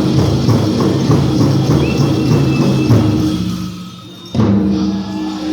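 Powwow drum group beating a big drum and singing a contest song for the men's prairie chicken dance. The drumming drops away about four seconds in, and after a short lull a voice comes in with long held tones.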